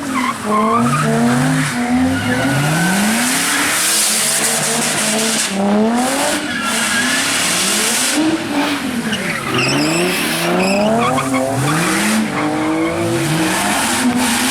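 Car engine revving up and down over and over, its pitch rising and falling about once a second, over a steady hiss of spinning tyres as a car does donuts on wet pavement.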